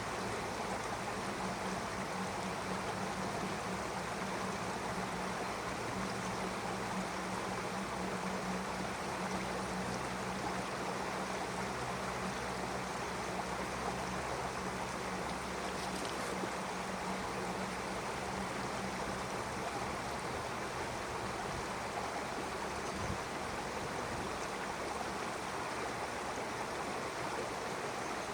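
Stream flowing: a steady, even rush of water. A low steady hum sits underneath and fades out about two-thirds of the way through.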